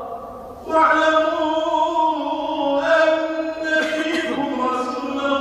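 A man's voice reciting the Quran in melodic tajweed chant during the Maghrib prayer. After a short breath pause at the start, he sings long, drawn-out notes that slide in pitch.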